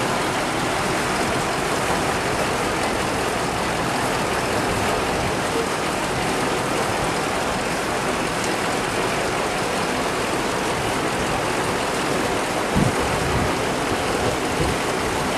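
Rain and rushing floodwater in a flooded street, a steady, even hiss. A brief low thump about thirteen seconds in.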